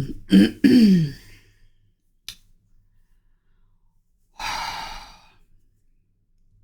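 A person's voiced sigh falling in pitch, then a faint click, then, about four and a half seconds in, a long breathy exhale.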